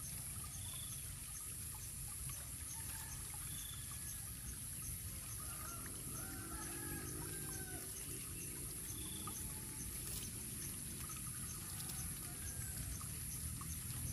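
Faint, scattered bird calls, short notes that bend up and down, over a steady low background noise. A faint regular ticking runs high above them.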